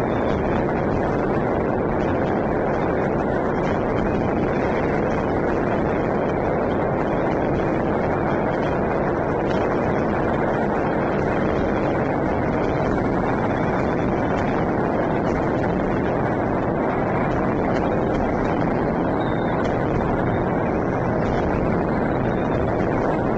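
Many fireworks and firecrackers going off at once across the city, blending into a steady, dense din in which no single bang stands out.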